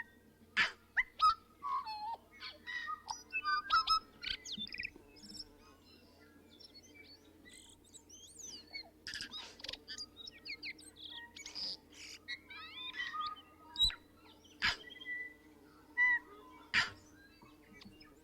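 Birds chirping and calling: many short chirps, whistles and quick sliding notes, with a faint steady hum underneath.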